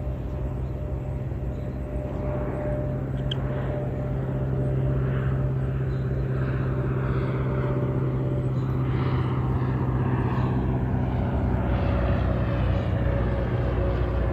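Cessna 172's four-cylinder piston engine and propeller droning steadily as the light plane flies over, growing gradually louder.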